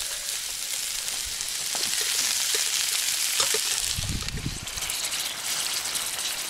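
Onions, peppers and small potatoes sizzling in a frying pan over a campfire, a steady hiss that swells in the middle, with a brief low rumble about four seconds in.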